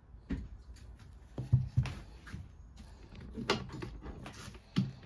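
Irregular clicks and knocks of hand tools and small metal parts being handled while a lawnmower carburetor is taken apart.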